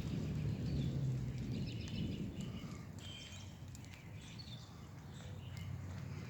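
Small birds chirping in short, scattered calls over a continuous low rumble, which is louder at first and eases off about two seconds in.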